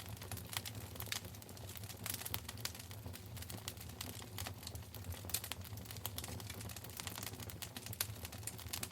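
Wood fire crackling in a fireplace: many irregular sharp pops and snaps over a low steady rumble of the flames.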